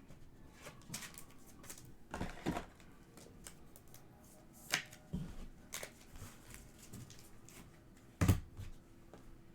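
Panini Prizm trading cards being flipped through and slid against one another by hand: scattered soft swishes and clicks, the loudest about eight seconds in.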